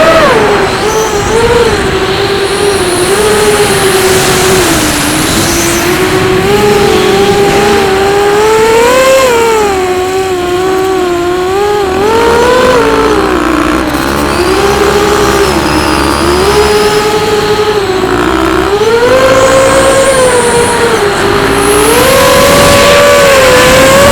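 Quadcopter's electric motors and propellers buzzing right beside the on-board camera, like a pack of bees, the pitch wavering up and down as the throttle changes.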